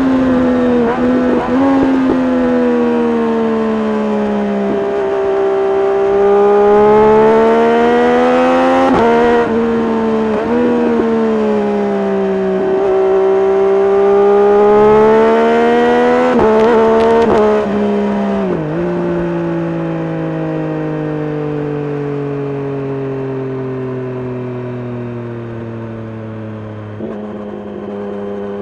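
Triumph Street Triple RS's 765 cc three-cylinder engine through an SC-Project S1 exhaust, revving up through the gears with a quick dip in pitch at each shift. In the last third the revs fall steadily and the sound grows quieter as the bike slows.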